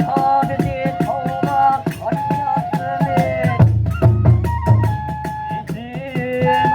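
Kagura ensemble music: a held, stepping bamboo-flute melody over a fast, even beat of small hand cymbals, with a run of heavy drum beats in the middle.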